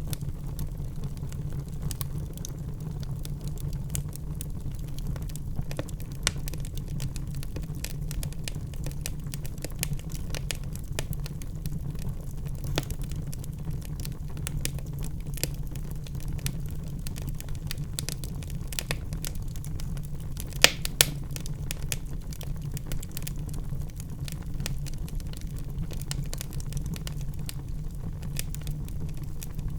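Wood fire burning in a fireplace: a steady low rumble of flames with scattered crackles and pops from the logs, two louder pops close together about two-thirds of the way in.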